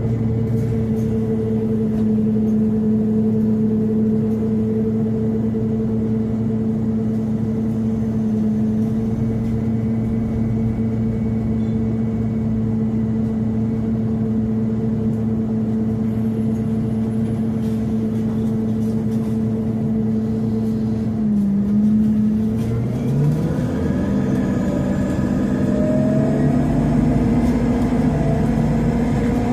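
Scania CN270UB city bus's compressed-natural-gas engine running at a steady, even idle for about twenty seconds. Then the note dips briefly and rises as the bus pulls away and accelerates.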